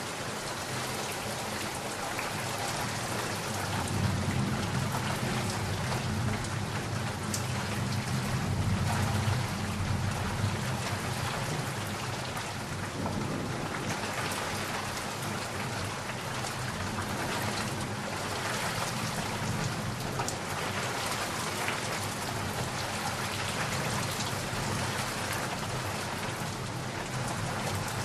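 Steady heavy rain falling, with a low roll of thunder rumbling from about four to ten seconds in.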